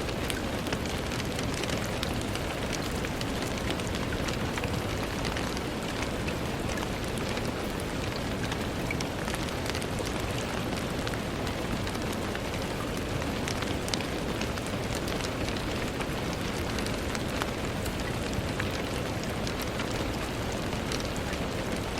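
Steady rain falling, with many fine drops ticking sharply against a window pane over a constant hiss of rainfall.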